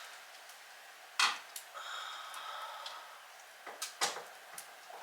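Door hardware being fitted into an entry door: a few sharp clicks and knocks, the loudest about a second in and two more close together near the end, with a faint thin whine for about a second in the middle.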